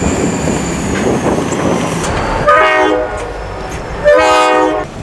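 A multi-note horn blown twice, each blast a little under a second, over a steady rushing rumble of a moving vehicle.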